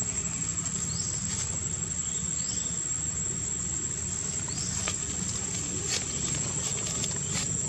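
Steady, high-pitched insect drone from crickets or cicadas, with a few short rising chirps and scattered faint clicks over it.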